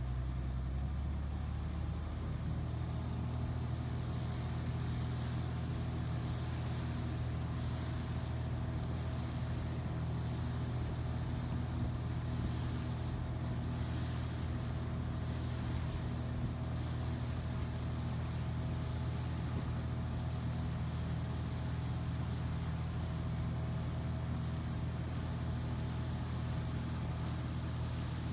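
A steady low engine hum with a constant pitch.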